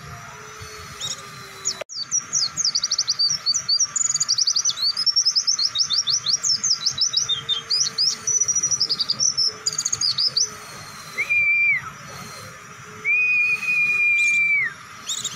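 White-eye (pleci) singing its long, rapid song: a fast, unbroken run of high chirping notes that starts abruptly about two seconds in and lasts about eight seconds. Near the end come two long, level whistled notes.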